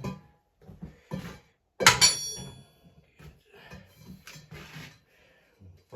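Workshop clatter: a sharp metallic clank about two seconds in that rings briefly at several high pitches, among softer knocks and scrapes.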